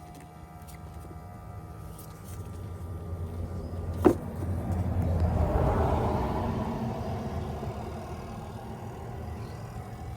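A vehicle passing by, swelling to a peak and fading away, over a steady low hum, with one sharp click about four seconds in.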